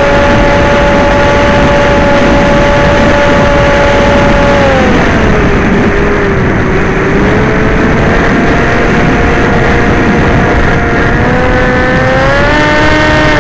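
Electric motors and propellers of an FPV model aircraft whining with throttle changes over wind rush. The pitch holds steady, drops about five seconds in, creeps back up, then rises again near the end.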